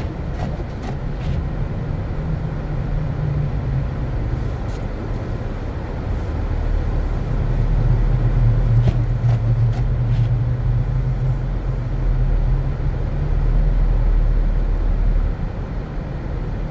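Car driving: a steady low rumble of engine and road noise that swells for a while in the middle, with a few faint clicks.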